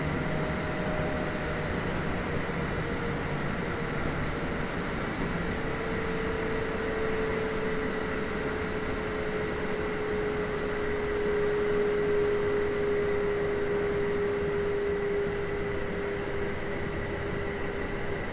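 Running noise inside a Kintetsu 1420 series VVVF-prototype electric train: steady rumble of wheels on rail, with a held tone from the inverter-driven traction motors that sinks slowly in pitch from about six seconds in as the train slows.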